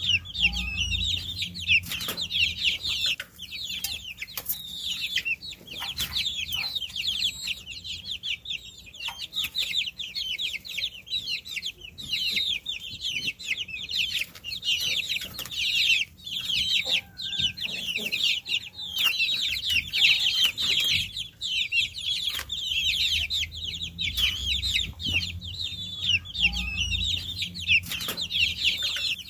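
A brood of baby chicks peeping continuously, many high chirps overlapping, with scattered small clicks and taps.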